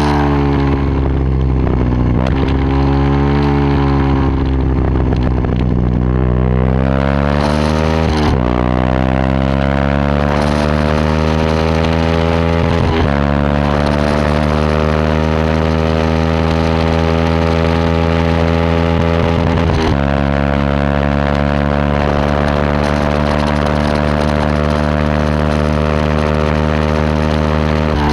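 Yamaha WR125X's single-cylinder four-stroke engine running through a Takkoni aftermarket exhaust. The revs rise and fall at first, then climb through the gears with upshifts about eight, thirteen and twenty seconds in, and hold fairly steady near the end.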